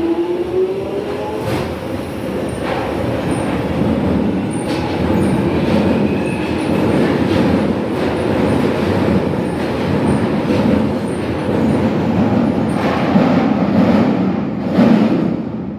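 London Underground Jubilee line 1996 stock train departing and passing: a rising traction-motor whine tops out right at the start, then wheels running on the rails with irregular clacks over rail joints. The sound drops away near the end.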